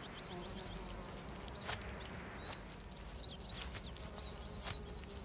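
A bird chirping in quick runs of short, high notes, with a few sharp clicks over a low steady rumble.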